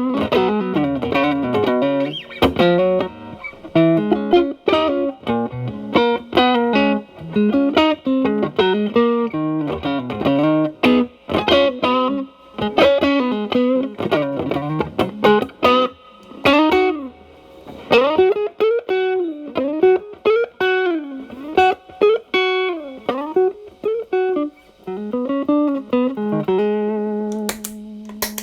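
Fender Telecaster played through an Xotic BB overdrive pedal into a Marshall Valvestate amp's clean channel, with the guitar's volume rolled back for a cleaned-up, lightly driven tone. A blues-style lead starts with quick runs and shifts to slower notes bent up and down, ending on a held low note.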